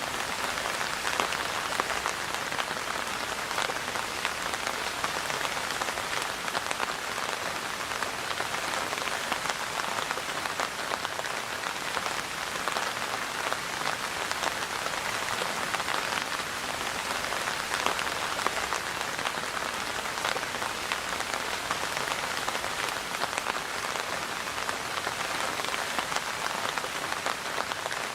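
Steady rain falling on a hard surface, an even hiss dense with small drop ticks.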